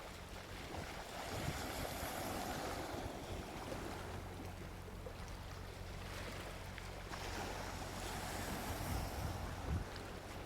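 Soft ocean waves washing onto a beach: a continuous surf hiss that swells and eases as each wave comes in.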